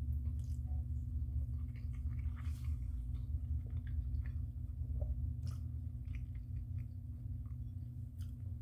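A person chewing a mouthful of spaghetti and meatballs: soft, scattered wet mouth clicks and smacks over a steady low hum.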